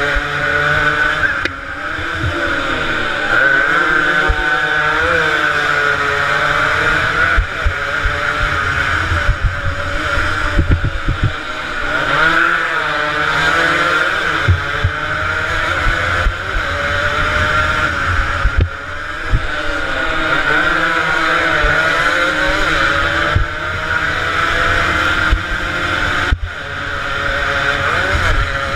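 Several small two-stroke motorcycle engines revving hard at high pitch, their tones overlapping and repeatedly rising and falling as the bikes race, over a rough low rumble.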